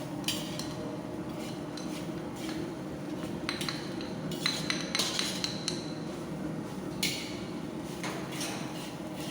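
A metal ladle scrapes and clinks against a large pan while grated coconut is stirred as it roasts in oil, with irregular strokes over a steady low hum.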